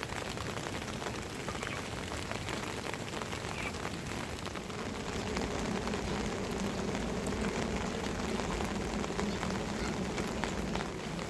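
Steady rain falling, with many small, sharp drop impacts ticking through it.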